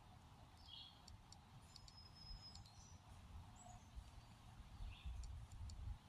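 Near silence with faint, scattered bird chirps and a brief thin whistle, a few soft ticks, and a low rumble that swells toward the end.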